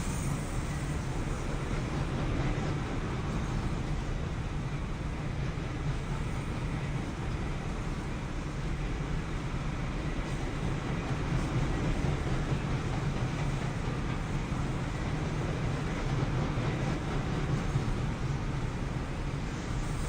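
Norfolk Southern manifest freight train passing with a steady low rumble.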